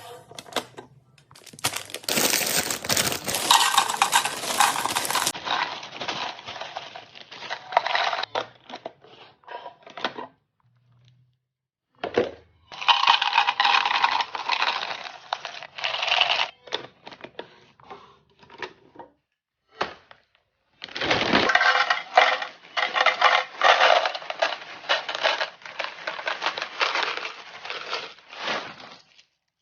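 Rattling and clinking of small hard items and containers being dropped, poured and set in place while a pantry or fridge is restocked. It comes in three long stretches of dense clatter, broken by two short silences.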